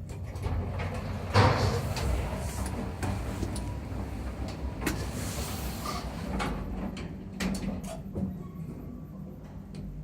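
Otis elevator running, with a loud bang about a second and a half in over a steady low rumble, then scattered clicks and knocks. The bang is the abnormal noise this elevator makes.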